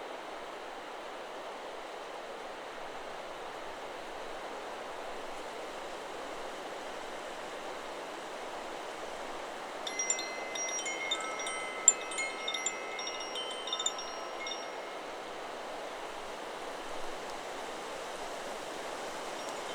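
Steady wind and tree rustling, then about halfway through a Chakra Chimes 'Solar Plexus' wind chime rings in a cluster of clear strikes for a few seconds, its tones fading away after.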